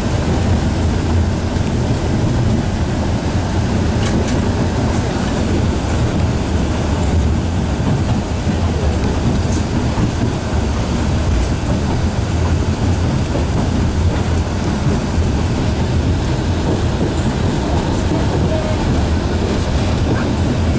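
Alishan Forest Railway passenger coach running along the track, heard from inside the coach: a steady low rumble of wheels and running gear, with a few faint clicks.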